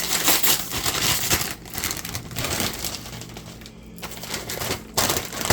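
Crinkling of a popcorn snack bag being opened and handled, loudest in the first couple of seconds, quieter after, with another sharp crinkle near the end.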